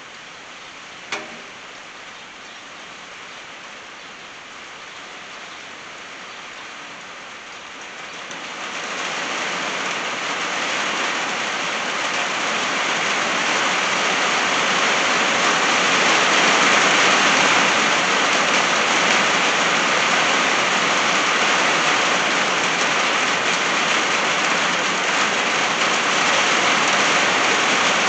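Rain drumming on a tin roof. It is steady and moderate at first, then picks up about eight seconds in to a heavy, even downpour. A single sharp plink sounds about a second in.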